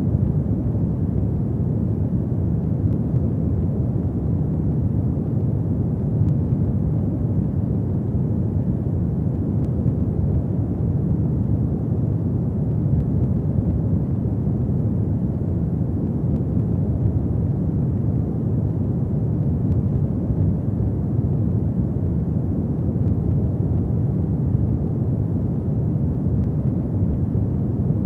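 Fire burning in a fireplace: a steady low rumble of flames with a few faint crackles.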